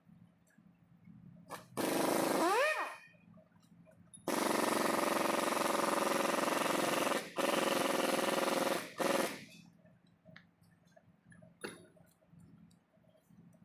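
Angle grinder with a wire brush attachment run in short bursts against the engine's metal. It spins up with a rising whine about two seconds in, then grinds steadily for about three seconds and twice more briefly before stopping.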